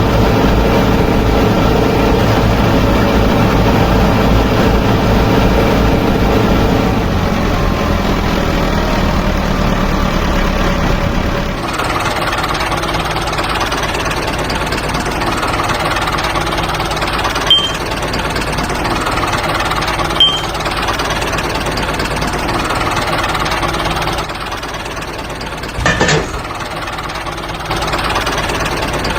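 An engine running steadily. Its sound changes abruptly about twelve seconds in. Later there are two short clicks and a single knock near the end.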